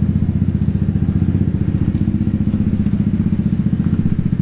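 Motorbike engine idling steadily, with a quick, even pulse.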